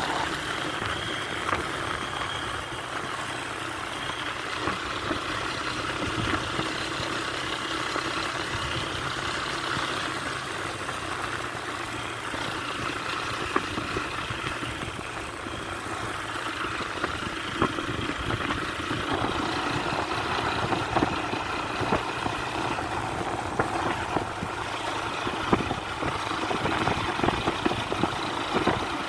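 A motor vehicle's engine running steadily, with frequent small rattles and knocks throughout.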